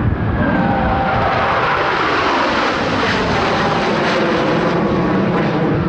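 A formation of Boeing F/A-18 Super Hornet jets passes overhead with a loud, steady roar. A whine falls in pitch over the first couple of seconds as the jets go by.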